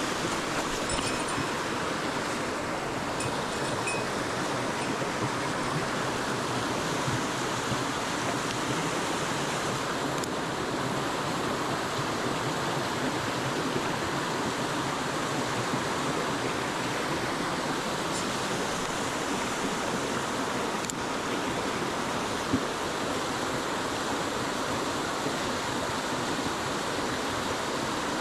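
Mountain headwater stream rushing steadily over rocks and small cascades, with one brief click a little past three quarters of the way through.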